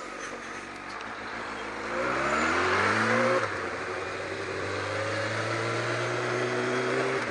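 Kawasaki ZX-12R's inline-four engine accelerating: the revs climb for about a second and a half, drop sharply at an upshift, then climb again more slowly to a second upshift near the end.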